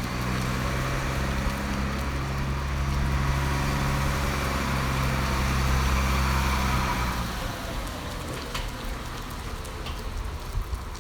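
A motor vehicle's engine runs steadily close by, with rising noise, then cuts out or fades away about seven seconds in, leaving faint background hiss with a few light clicks.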